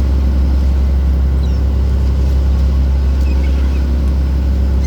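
Steady, loud low drone of a fishing boat's engines running.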